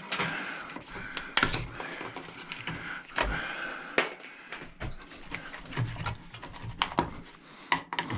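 Hand tools working on scrap metal parts: irregular clinks, taps and knocks as pieces are pried and worked apart, a few strikes louder than the rest.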